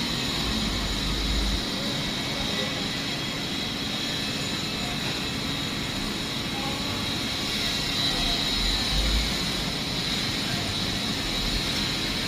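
Steady mechanical running noise with a constant high whine, swelling low in pitch briefly near the start and again about eight seconds in.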